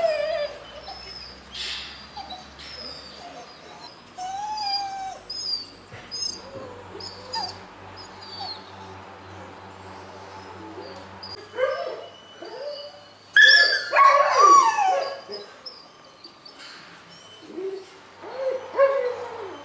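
Several shelter dogs whining and yipping, with a louder outburst of overlapping yelps and howls a little after halfway through.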